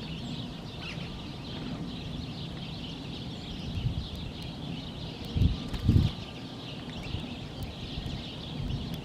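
A flock of birds chirping steadily over a low rumble, with two loud low thumps about five and a half and six seconds in.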